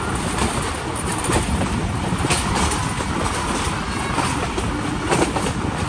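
Passenger train coach running along the track, heard from an open window: a steady rumble of wheels on rail with rushing air noise and a few sharp clicks.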